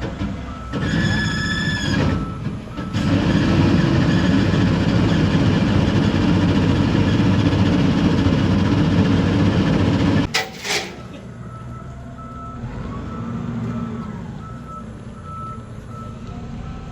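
Heavy vehicle's diesel engine running hard for about seven seconds, then cutting off suddenly, followed by two short bursts of air hiss. A reversing alarm beeps steadily, plainest in the second half. About a second in, a short horn-like tone sounds.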